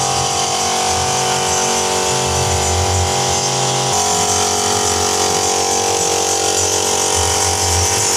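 Electric power tool running steadily, its tone shifting about four seconds in.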